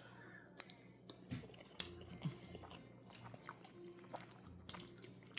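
A person chewing a mouthful of mac and cheese, with faint, scattered small mouth clicks.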